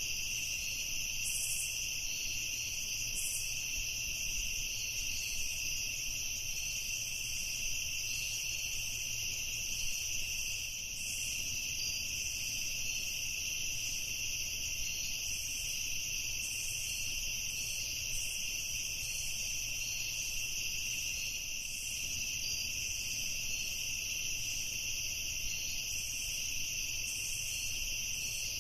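Evening chorus of crickets: a steady, unbroken high-pitched chirring, with a faint low rumble beneath.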